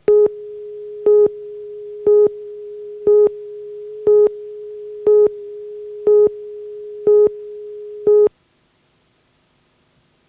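Electronic tone: a steady mid-pitched tone with a louder beep on top once a second, nine beeps in all, cutting off suddenly about eight seconds in.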